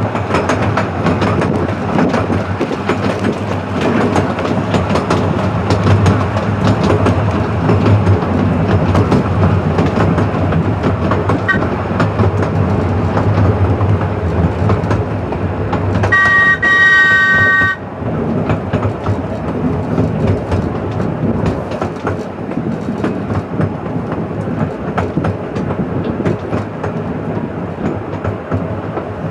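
Miniature railway train running along the track, heard from a carriage: a continuous rumble of wheels clicking over the rail joints, with a steady low hum. About sixteen seconds in, the train's multi-tone whistle sounds once for about a second and a half.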